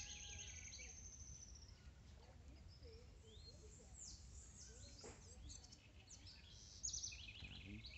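Faint songbirds chirping and trilling, with fast trills near the start and again near the end, over a low steady background hum.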